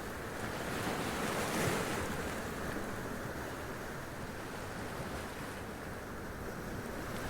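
Sea waves washing up over rocks: a continuous rush of surf, swelling briefly about a second and a half in.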